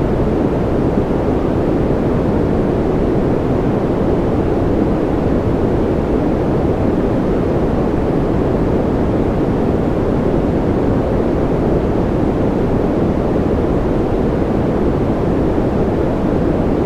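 Steady white-noise sleep track: an even, unchanging hiss weighted toward the low and middle range, dull rather than bright at the top.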